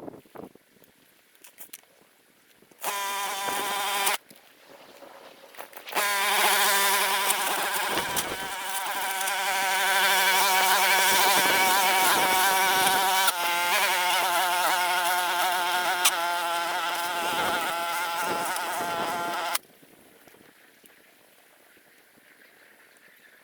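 Small engine of a grass-cutting machine running at a steady pitch: a short run of about a second and a half, then a long steady run of about thirteen seconds that cuts off abruptly.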